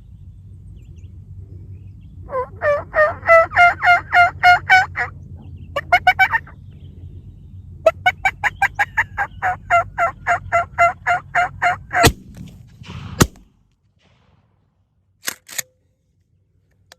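Wild turkeys calling in rapid series of repeated notes, then two shotgun blasts a little over a second apart.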